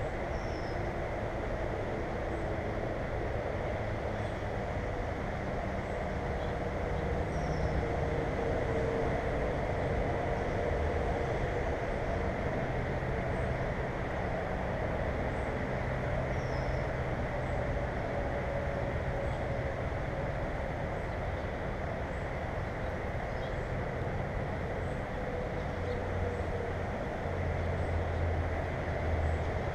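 A steady low rumble with a faint hum, like distant traffic, and three faint, short, high downward chirps of small birds over it.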